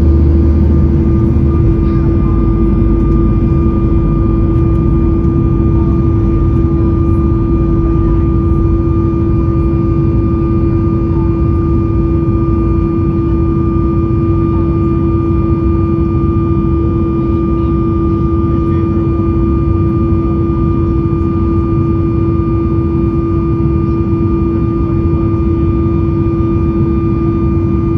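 Cabin noise of a Boeing 737 MAX 8 under way: the CFM LEAP-1B engines' steady drone and a deep airflow rumble, with a strong steady hum over it. The lowest rumble eases slightly about a second in.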